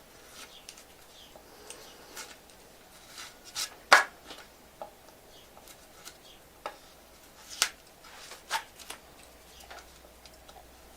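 Pocket knife blade picking and scraping at small bits on a carved wooden sign: scattered light scrapes and clicks, the sharpest about 4 seconds in with others near the middle and end.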